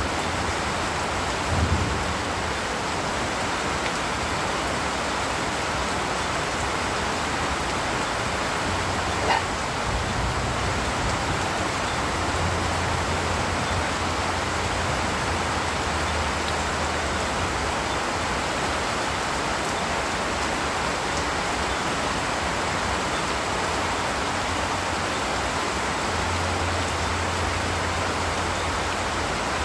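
Steady rain falling, an even hiss, with two brief knocks, one about two seconds in and one about nine seconds in.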